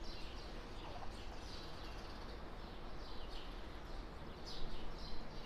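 Faint chirping of small birds in the background: short falling notes, irregularly about two a second, over a steady low hum.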